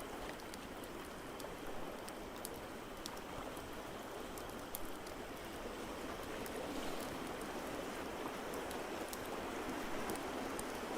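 Crackling fire with scattered sharp pops and snaps over a steady rushing of water.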